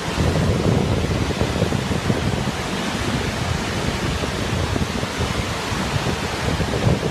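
Steady roar of Montmorency Falls, a constant rushing noise, with wind buffeting the microphone in a heavy, fluttering low rumble.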